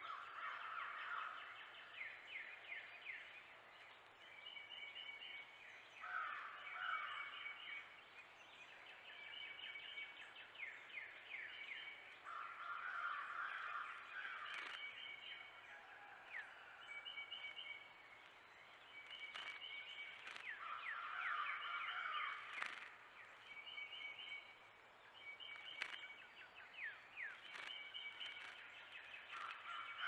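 Songbirds calling: a chattering burst about two seconds long comes every six to eight seconds. Between the bursts there are many short, high downslurred chips and brief paired whistled notes, with a few faint clicks.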